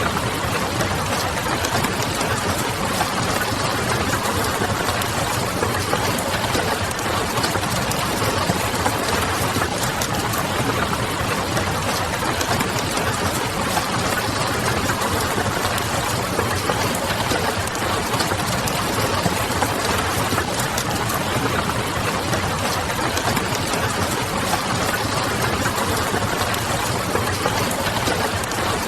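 Steady rain pattering, with the small crackles of a wood fire and a low city hum underneath.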